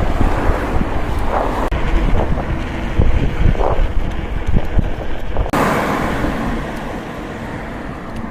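Wind buffeting the microphone outdoors, a steady rushing noise with a deep rumble. The sound changes abruptly about five and a half seconds in, then eases off gradually.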